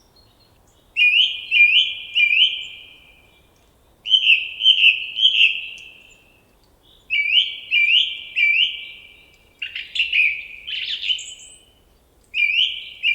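A songbird singing: phrases of three quick, slurred whistled notes, repeated with short pauses between them, and one rougher, more jumbled phrase about ten seconds in.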